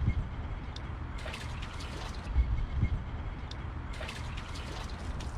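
Champagne being poured out as a libation, splashing and trickling, in two stretches, over a steady low rumble.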